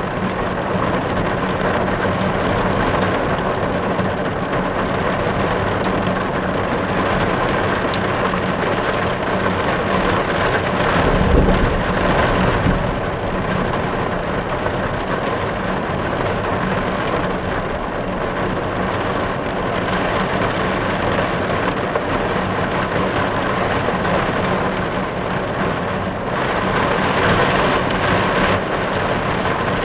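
Steady rain falling on a car, heard from inside the car. A low rumble rises briefly about eleven seconds in.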